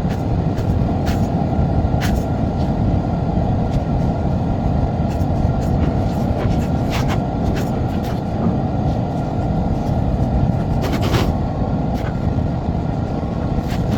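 A vehicle running steadily under load, with scattered short sharp clicks over the steady noise.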